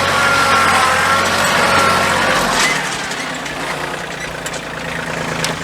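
Engine of the machine used to scoop and haul sawdust, running steadily at low revs. A wavering whine rides over it for the first couple of seconds, and the engine sound stops near the end.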